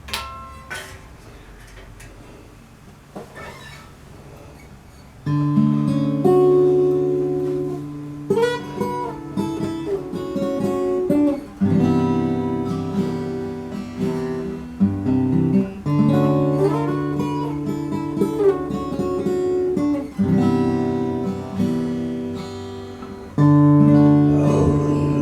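Acoustic guitar playing slow chords as a song intro, with the chords ringing on between strokes. It comes in about five seconds in, after a few faint clicks.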